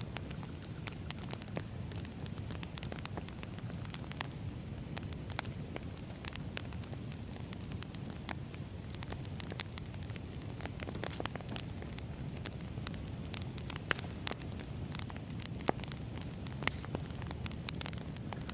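Wood fire burning with a steady low rumble and frequent irregular crackles, a few sharper pops near the end.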